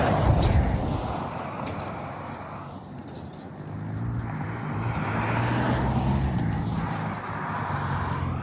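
Pit bike engine revving as it rides by, loudest right at the start and fading over the next few seconds. An engine then swells again from about four seconds in and runs on steadily.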